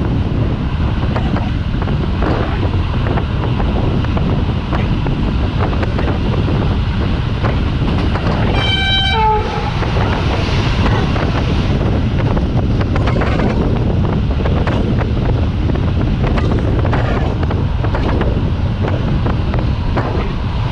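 Passenger train running, heard through the carriage window: steady wheel rumble and rushing air with irregular knocking of wheels over rail joints. About halfway through, a train horn sounds once for about a second, dipping slightly in pitch as it ends.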